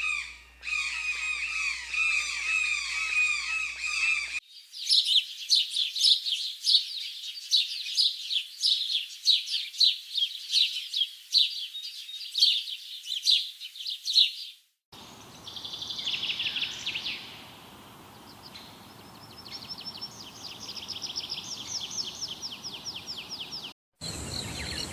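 Small birds chirping in three short clips cut together. First a chatter of repeated downward-sliding calls, then about ten seconds of dense, rapid high chirping, then quieter trilled song over a steady hiss.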